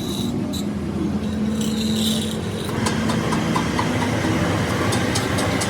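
A heavy machine's engine idling steadily with a low rumble. About halfway through, a rapid, light ticking joins in and grows clearer near the end.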